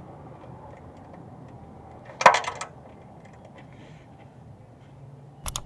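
Ratchet wrench on the oil drain plug giving a final tightening, a quick run of sharp metallic clicks about two seconds in and two more clicks near the end.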